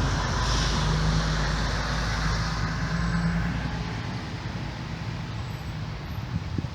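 Road traffic noise: a steady low rumble of vehicle engines and tyres with an engine hum that is loudest in the first three and a half seconds and then eases off.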